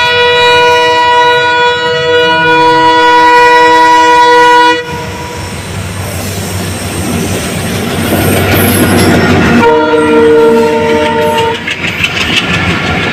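Train horn blowing a long blast that cuts off about five seconds in, followed by the steady rumble and rail noise of the train passing over the level crossing. A second, shorter horn blast sounds around ten seconds in.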